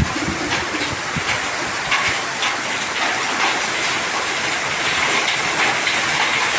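Hailstorm: a steady hiss of heavy rain with many sharp clicks of hailstones striking hard surfaces.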